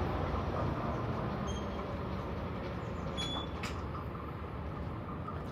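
Caltrain diesel-hauled local train pulling away from the station: a steady low rumble that slowly fades, with a couple of faint clicks about three seconds in.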